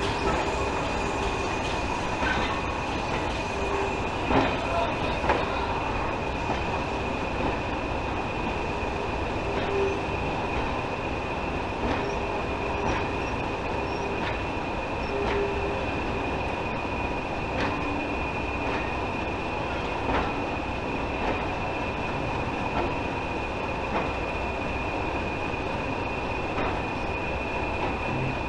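Train rolling slowly along the track, its wheels clicking over rail joints every second or two beneath a steady rumble and a constant high whine.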